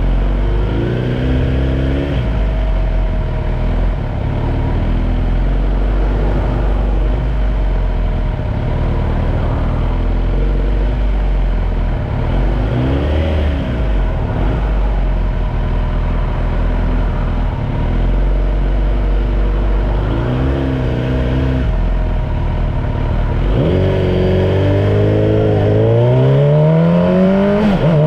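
Kawasaki Z900 motorcycle engine, freshly ECU-flashed, idling at a stop with three short throttle blips. Near the end it pulls away, the pitch rising steadily, dropping at a gear change and rising again.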